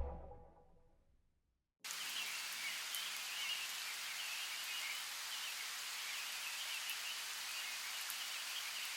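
Electronic music cutting off, then about two seconds of silence, then steady faint outdoor ambience: an even hiss with faint bird chirping running through it.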